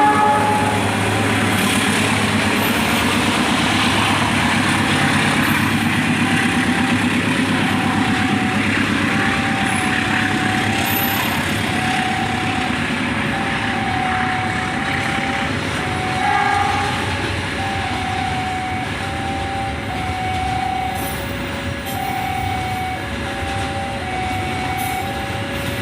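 Long container freight train rolling past a level crossing, a steady rumble of wheels and wagons. A short train horn blast sounds at the start, and from about six seconds in the crossing's warning alarm alternates between two tones, high and low, over the train noise.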